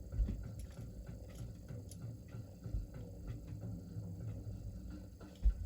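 Handling noises: light clicks and a few soft low bumps as a small diecast model and the display are moved about, with the loudest bump near the end.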